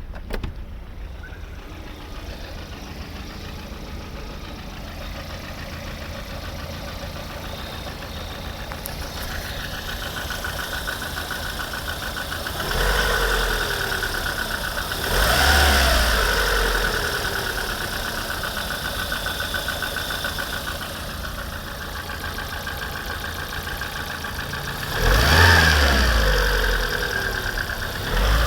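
VAZ-21126 1.6-litre 16-valve four-cylinder engine idling with an extraneous knock, revved briefly three times: about halfway through, again two seconds later, and near the end.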